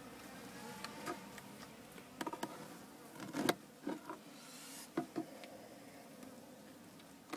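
Honeybees buzzing around an open top bar hive, a faint steady hum with individual bees' pitch sliding as they fly past. Several short sharp knocks and clicks cut through it, the loudest about three and a half seconds in.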